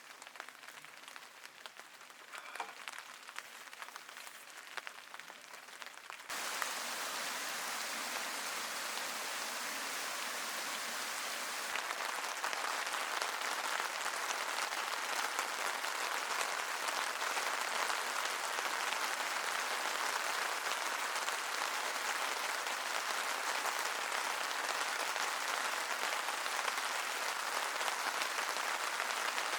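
Steady rain falling, light at first, then suddenly much louder about six seconds in and staying heavy.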